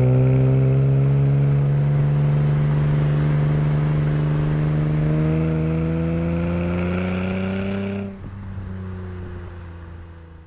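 Acura TL SH-AWD's 3.7-litre V6 through an ATLP aftermarket exhaust, pulling hard under acceleration with its note rising steadily. About eight seconds in the throttle closes suddenly, and the engine drops to a quieter, lower note that fades away.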